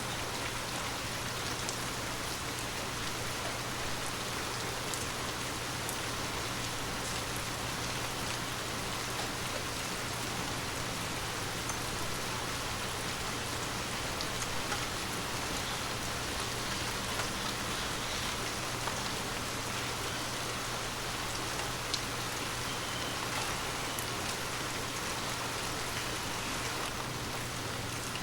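Water drops pattering steadily on glass, a dense rain-like hiss with scattered sharper individual drop taps standing out now and then.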